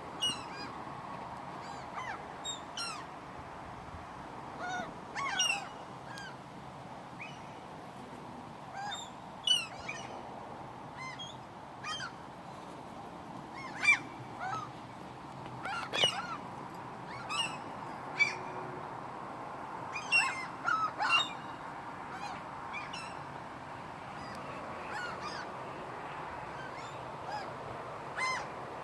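A flock of seagulls calling: many short, harsh cries, one after another and sometimes overlapping, with no steady rhythm, over a steady outdoor background hum.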